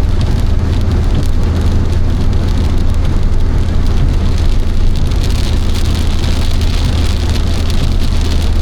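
Torrential rain pelting a car's roof and windshield, heard from inside the moving car, with the steady drone of the engine and road underneath. The rain's hiss grows brighter from about halfway.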